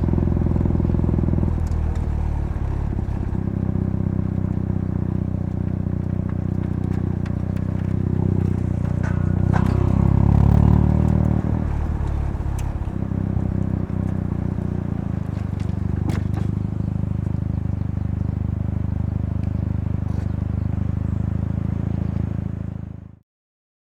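Mazda RX-7 FC3S twin-rotor 13B rotary engine driving through a Knight Sports Legal Sports aftermarket muffler, running steadily with a few sharp clicks. The exhaust note swells louder about ten seconds in, then eases back, and the sound cuts off a second before the end.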